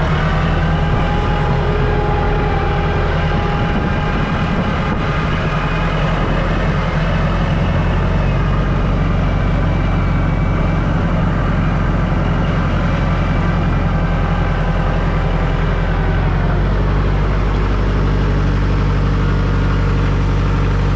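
Kubota L48 tractor's diesel engine running steadily at raised revs as the tractor drives forward: a low drone with a steady higher whine over it. The engine note shifts a little near the end.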